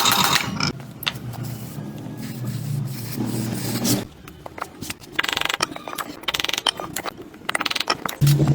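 Mechanical clicking and scraping of metal hand tools, with a short burst of fast, even ratchet-like clicks about five seconds in.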